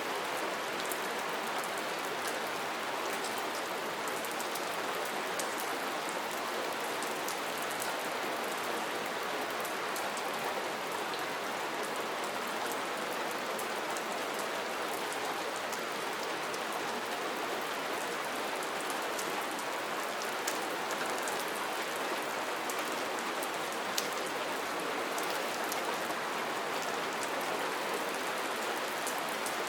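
Steady rain falling, an even hiss with many fine drop ticks and an occasional louder single drop.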